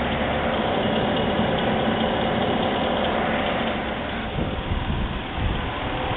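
Warmed-up engine idling steadily, with a few uneven low bumps about four to five seconds in.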